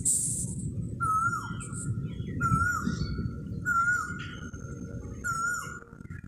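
A bird calling over and over, about once every second and a half. Each call is a short whistled note that dips at the end, with high, fast twittering above it. A steady low rumble runs underneath.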